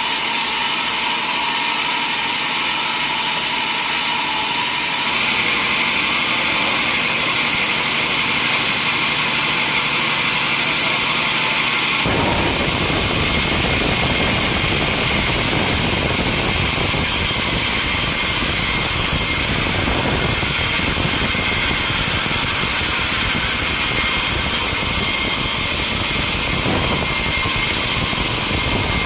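Sawmill machinery running: a loud, steady mechanical noise that changes abruptly about five seconds in and again about twelve seconds in.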